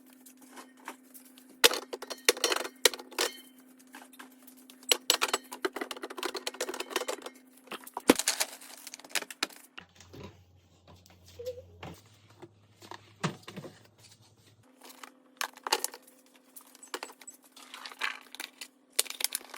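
Groceries being handled and put away: bottles and containers clink, tap and knock against one another and on shelves in an irregular run of small clicks, over a faint steady low hum.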